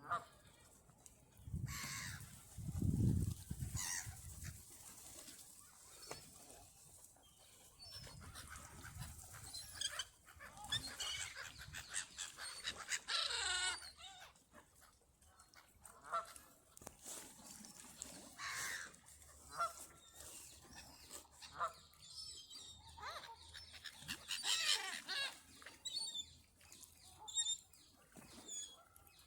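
Geese honking and calling over and over, with a loud low rumble about three seconds in.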